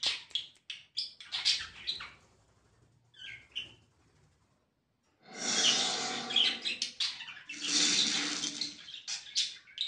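Pet bulbul calling: short chirps at first, a brief call about three seconds in, then two longer harsh, rasping stretches in the second half.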